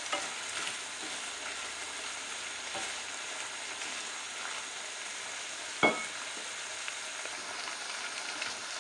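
Mushrooms in coconut milk sizzling in a pan on high heat as the liquid reduces, with a wooden spatula stirring and scraping through them. One sharp knock about six seconds in stands out above the steady sizzle.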